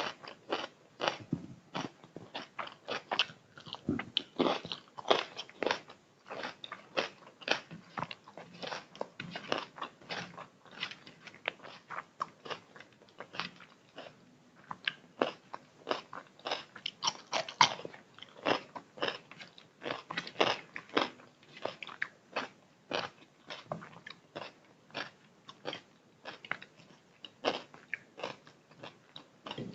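A person eating chicken biryani and chilli chicken close to the microphone: chewing and biting, with many sharp mouth clicks at an irregular pace of several a second.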